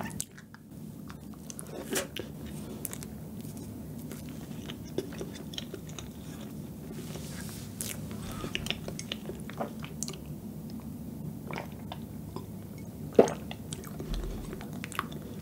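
Close-miked chewing of soft cream cake and sponge: wet mouth smacks and small clicks, with one sharper click near the end.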